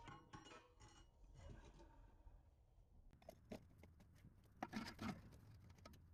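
A few faint metallic clicks and knocks, mostly in the second half, from handling a new muffler against the cut ends of the exhaust pipes while test-fitting it.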